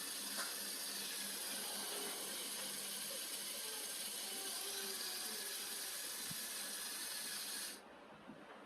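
A steady high-pitched hiss that cuts off abruptly near the end.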